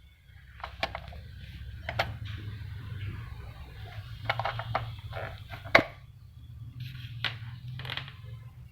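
Irregular clicks and knocks of parts being handled as a Gprinter GP-C80250 Plus receipt printer is taken apart. The loudest knock comes a little before six seconds in, and a steady low hum runs underneath.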